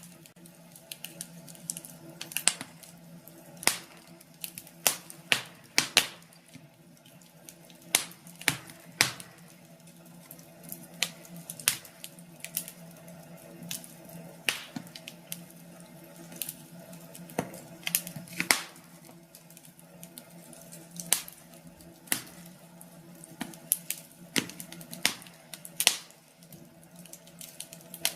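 Wood fire crackling in a fireplace: irregular sharp pops and snaps, sometimes several a second, over a faint steady hum.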